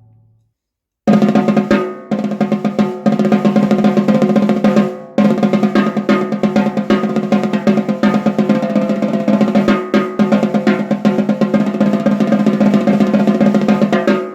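Aluminium snare drum (Noah Pure Alloy, 14x6.5") played in fast strokes and rolls with the snares on, each stroke carrying a steady low ring of the shell. The playing starts about a second in and pauses briefly twice.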